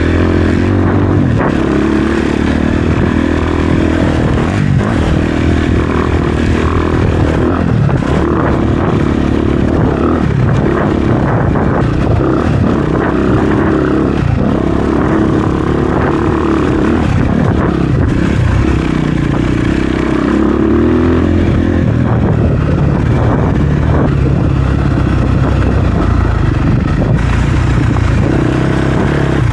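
Honda CRF250RX dirt bike's four-stroke single-cylinder engine running under load on a rocky trail, its revs rising and falling again and again as the throttle is worked, with scattered knocks and rattles throughout.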